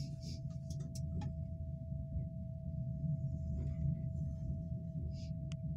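Moving passenger train heard from inside the carriage: a steady low rumble with a constant thin whine above it. A few light clicks fall in the first second and again near the end.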